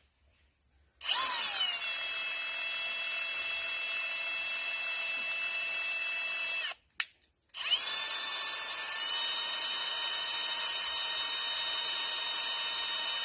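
Electric drill spinning a drill-driven water pump attachment, running at steady speed with an even whine. It starts about a second in, stops briefly around seven seconds, and starts again.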